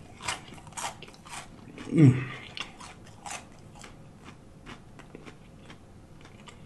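Close-miked chewing of crunchy fried food, a quick run of crisp crunches that thins out into slower bites. About two seconds in comes a short, falling 'mmm' of enjoyment.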